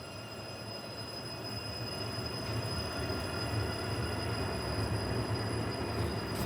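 A Toronto TTC subway or light rail train running on the rails: a steady rumble that grows louder over the first few seconds and then holds, with several high, steady whining tones above it.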